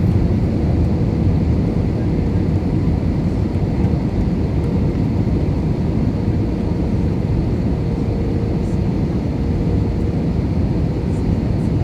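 Steady cabin drone inside an Airbus A320 on final approach: its IAE V2500 engines and the rush of air over the fuselage, with a faint steady hum running through it.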